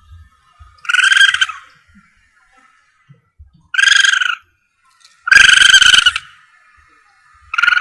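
Civet lure call played loudly: an animal call repeated four times, each under a second long and spaced one to two seconds apart, the last one running on past the end.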